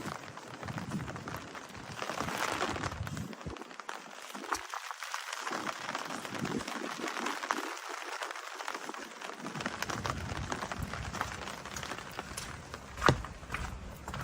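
Rain falling steadily, with many individual drops ticking close by and a sharper knock near the end.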